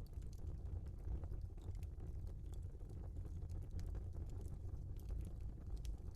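Log fire burning in a fireplace: a steady low rumble of flames with scattered small crackles and pops from the burning wood.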